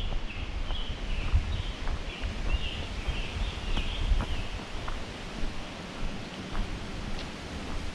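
A songbird warbling in quick high phrases for the first four seconds or so, over the rustle of footsteps on a leafy forest trail and a low rumble.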